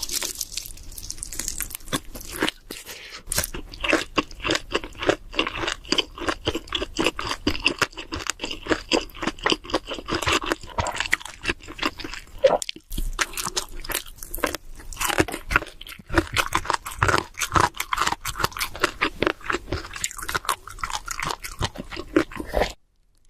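Close-miked chewing and crunching of cheese seafood pizza: rapid, irregular crunchy bites and wet chewing. The sound stops abruptly just before the end.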